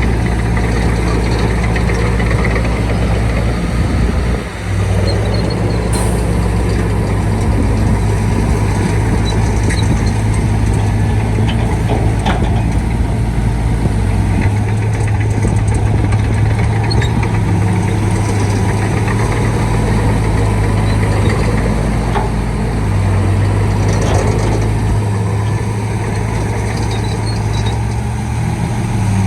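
Shantui D95 bulldozer's diesel engine running steadily as the machine works, its low note shifting a few times, with a brief drop in level about four seconds in.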